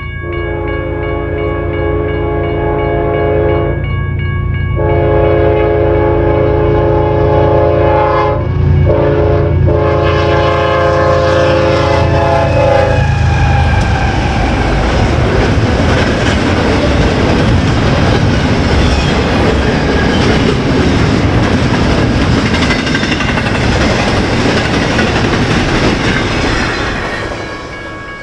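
BNSF freight locomotives' air horn sounding the grade-crossing signal, long, long, short, long, over the rumble of the diesel engines as they pass. Then the intermodal train's cars rush by with wheel clatter on the rails, fading near the end.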